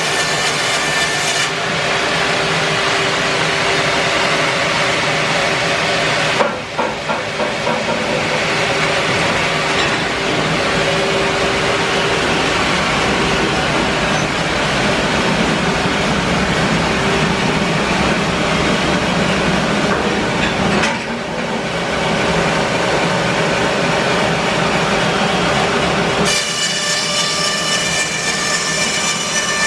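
Band sawmill running steadily while its blade cuts through a larch log, a hissing cut over the constant drone of the mill's motor. The cut begins just after the start and ends near the end, leaving the mill running.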